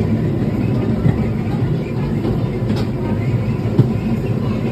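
Theme-park tour train running along its track, heard as a steady low rumble with an occasional faint click.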